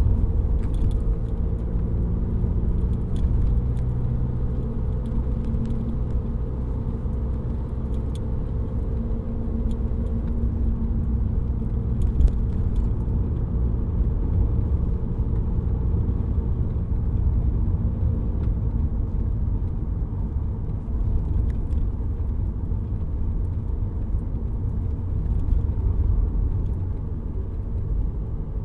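2007 VW Golf GT TDI's 2.0 litre BKD diesel running with a steady low rumble of engine and road noise. Over it, a few steady hum tones are clear for about the first ten seconds and then fade back into the rumble.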